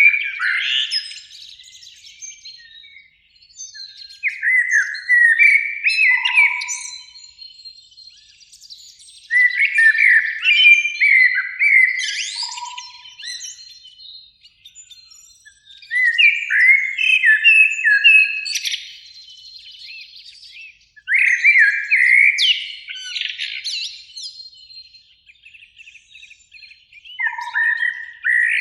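Common blackbird singing, in about five separate phrases with pauses of a few seconds between them. Each phrase is a run of stepped notes that ends in a higher, scratchy twitter.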